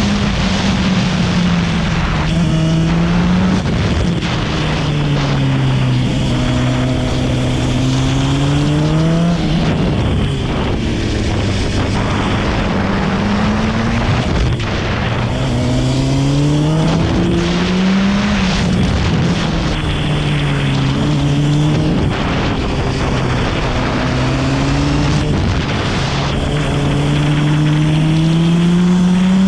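Motorcycle engine lapping a tight go-kart track: it revs up in long rising pulls and drops back every few seconds for the corners, again and again, under a steady rush of noise.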